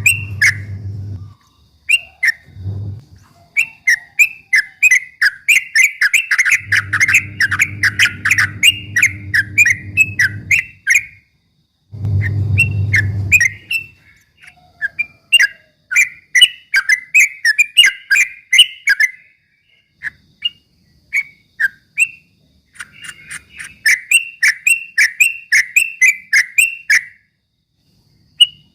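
Yellow-vented bulbul (trucukan) singing its rapid 'ropel' song: fast rolling runs of short chirpy notes, in several bursts with short pauses between. A low hum comes and goes underneath.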